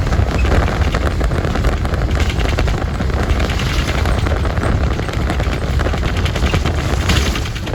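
A moving vehicle with its low rumble, wind buffeting the microphone and a fast, crackling rattle throughout.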